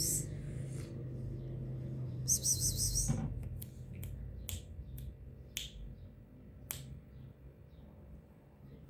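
A short high-pitched burst about two seconds in, followed by a string of short, sharp ticks, roughly one a second, over a steady low hum.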